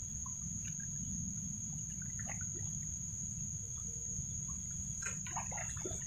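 A steady high-pitched insect trill over a low rumble of wind on the microphone, with a few faint small ticks and trickles, a cluster of them near the end.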